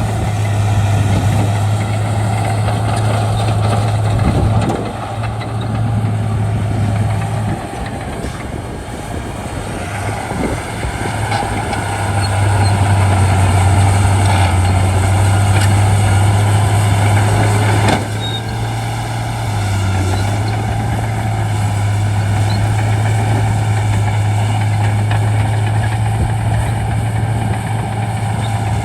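Shantui D95 bulldozer's diesel engine running under load, a steady low hum with clanking track noise over it. Its loudness eases for a few seconds and picks up again, and it drops suddenly partway through.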